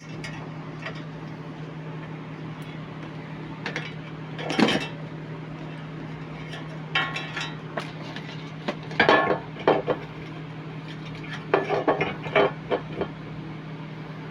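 Metal tools and parts clinking and clanking irregularly, in several clusters, over a steady low hum.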